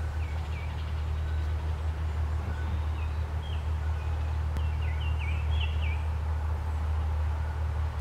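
Short, high chirping bird calls in a few quick runs over a steady low hum, with a single click about halfway through.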